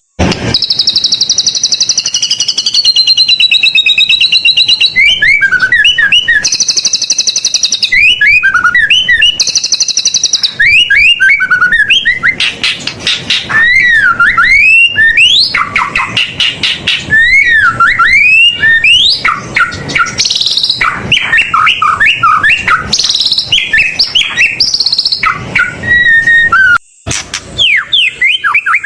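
White-rumped shama (murai batu) singing a loud, continuous song packed with varied phrases: fast trills, whistled notes and swooping glides, with a brief pause a little before the end.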